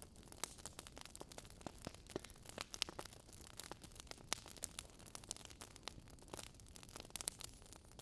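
Wood fire crackling in a fireplace: many sharp, irregular pops and snaps over a faint steady hiss.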